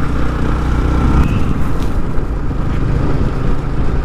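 Yamaha R15 V3's single-cylinder engine running steadily under way, with wind and road noise over the microphone; the engine note shifts about a second in.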